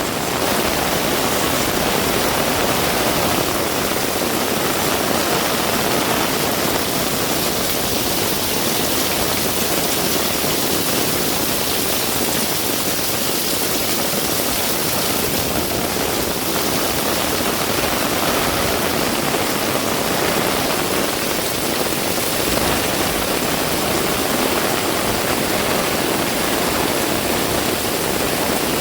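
Heavy rain pouring down in a steady, dense rush with no breaks.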